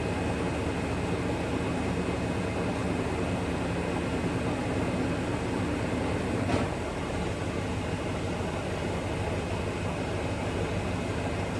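Engine of the Wildfire machine, used as a hoist, running steadily. A single sharp click about six and a half seconds in, after which the engine runs a little quieter.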